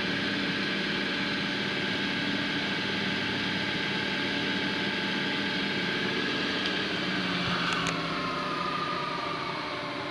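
Vertical milling machine's three-phase motor and spindle running steadily in reverse. Close to eight seconds in, a few clicks as it is switched off and braked, then the whine falls in pitch and fades as the spindle slows.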